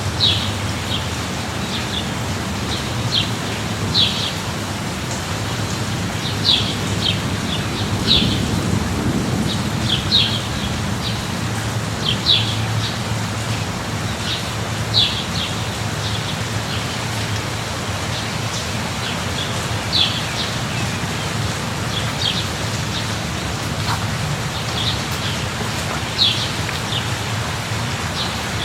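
Steady light rain falling, with a bird giving short high chirps every second or two over a low steady rumble.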